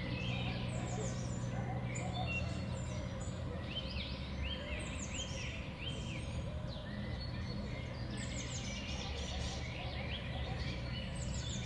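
Small songbirds at a winter feeder calling and chirping, a mix of short high chirps and repeated arched notes, over a steady low rumble.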